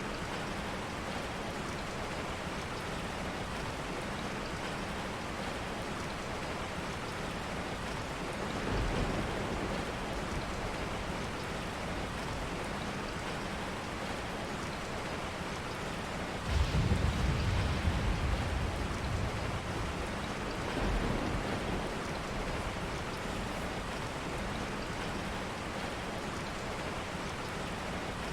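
Steady rain. Low rumbles rise under it several times; the loudest comes in suddenly about halfway through and fades over a few seconds.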